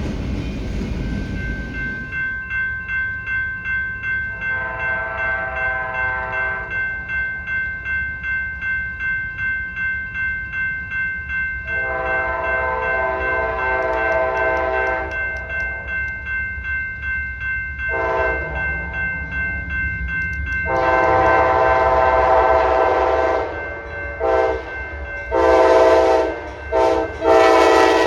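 Diesel locomotive horn sounding the grade-crossing signal, long, long, short, long, then more blasts near the end, over the rumble of the train. A crossing bell rings in steady pulses, about two a second, through the first half.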